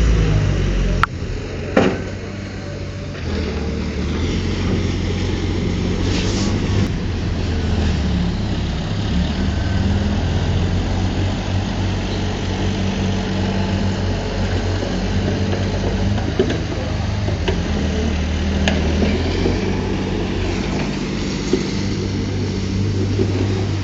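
Diesel engine of a heavy earthmoving machine running steadily, its pitch shifting a little with load. There are a couple of sharp metallic clanks about a second or two in, and a few fainter knocks later.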